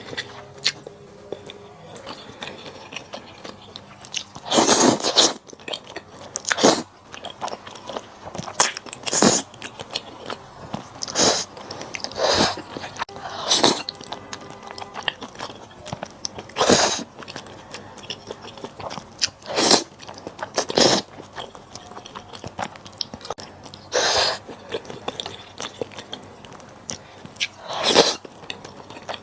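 Close-miked eating of malatang: chewing and crunching mouthfuls, with loud crunchy bites coming irregularly every one to four seconds.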